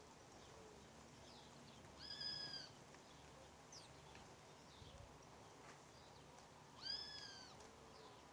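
A bird calling twice, about five seconds apart; each call lasts about half a second and rises then falls in pitch. Faint short chirps from other birds sound between the calls.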